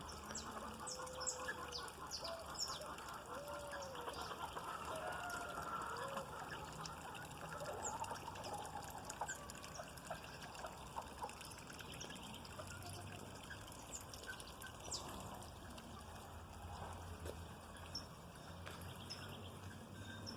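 Chickens clucking, with a few drawn-out hen calls in the first few seconds, and small birds chirping throughout, over a steady background of running rainwater.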